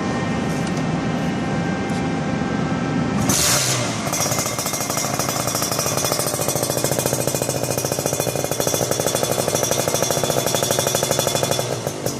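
Kawasaki Ninja R's two-stroke single-cylinder engine running through an aftermarket Creampie exhaust. About three and a half seconds in there is a short hissing burst, and after it the exhaust settles into a fast, even pulsing.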